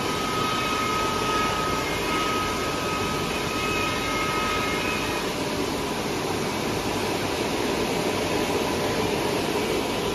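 Industrial bubble washing machine running: a steady noise of agitated water and machinery. A faint high whine sits over it through the first half and stops about five seconds in.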